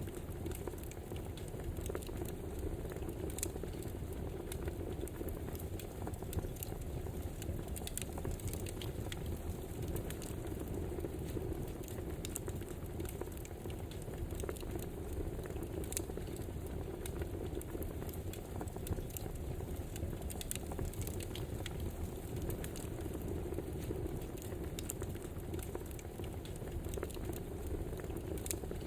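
Campfire burning: a steady rush of flame with many sharp crackles and pops at irregular intervals.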